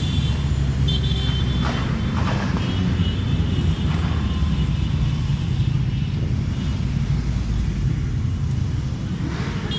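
Motorcycle engines running together in a steady low rumble, a group of bikes riding by.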